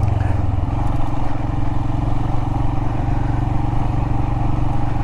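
Royal Enfield Himalayan's single-cylinder engine running at a steady, even pace while riding, with wind and tyre noise over it; the engine note shifts slightly just under a second in.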